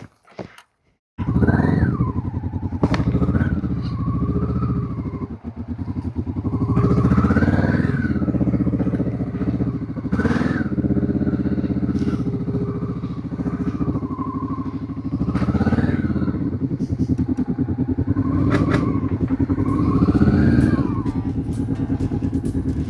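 Motorcycle engine running under way, its pitch rising and falling back about five times as the throttle is opened and eased. It comes in abruptly about a second in.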